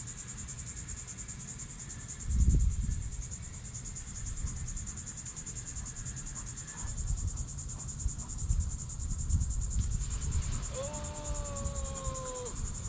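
Insects chirring steadily in a fast, high-pitched pulse, with a dull low thump about two and a half seconds in and a short held tone, falling slightly, near the end.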